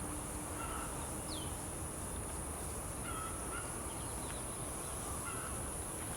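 Wild birds calling: scattered short chirps and whistles, one falling whistle about a second in. Behind them runs a steady outdoor hiss with a constant high-pitched ring.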